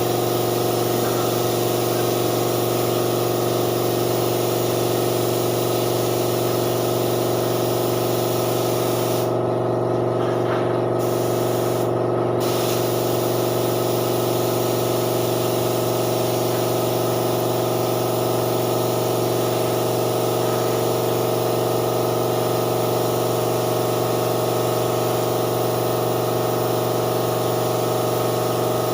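Spray gun hissing steadily while applying paint, over the steady hum of an air compressor. The hiss cuts out briefly twice near the middle while the hum carries on.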